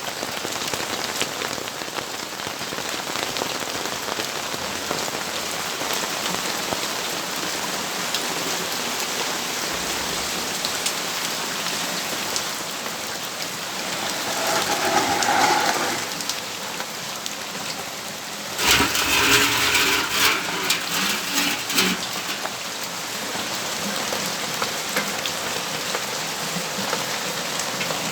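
Steady rainfall, an even hiss of drops on surfaces. About halfway through a louder sound swells and fades. Two or three seconds later a sudden, louder noisy passage lasts about three seconds.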